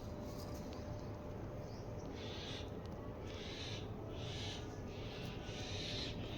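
A run of about six rasping, rhythmic strokes, roughly one a second, over a low steady hum.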